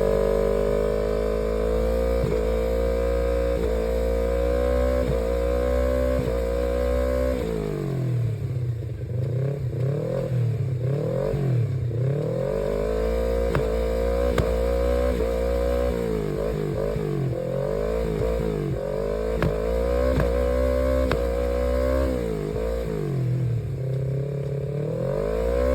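Honda CBR250RR with an aftermarket CZ1 exhaust, ridden hard. The revs climb through the gears with short dips at each change, then rise and fall repeatedly as the throttle is blipped and closed, then climb through the gears again.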